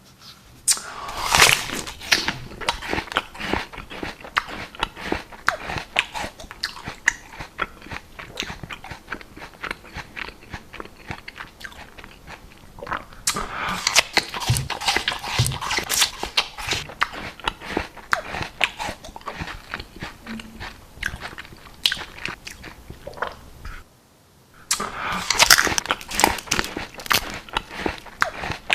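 Close-miked ASMR eating: steady wet chewing and biting with crackly crunches. Louder bursts of crunching come about a second in, around the middle and again near the end, with a brief pause in between.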